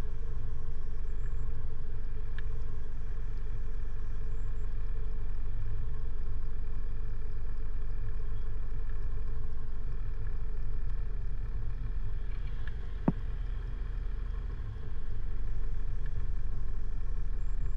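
Motorcycle engine idling steadily, with a single sharp click about thirteen seconds in.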